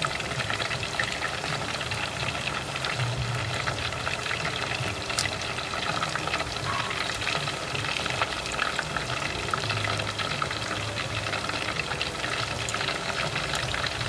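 Batter-coated chicken pieces deep-frying in hot cooking oil: a steady sizzle thick with small crackles and pops as the oil bubbles around them.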